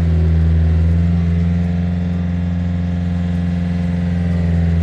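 Bulldozer's diesel engine running with a steady, deep drone.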